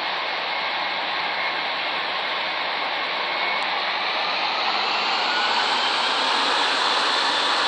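Boeing 787 jet engines: a steady rushing noise that swells and brightens about five seconds in, with a faint rising whine.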